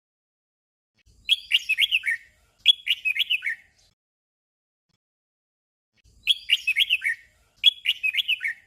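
Red-whiskered bulbul singing a short 'doubled' song: two quick whistled phrases back to back, given twice with a pause of a couple of seconds between the pairs.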